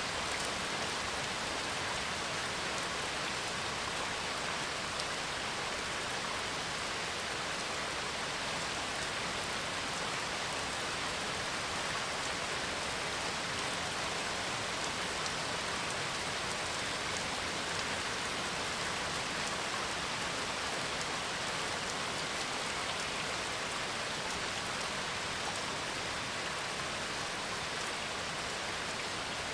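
Steady heavy rainfall, an even hiss of rain falling on surfaces with no thunder or other events.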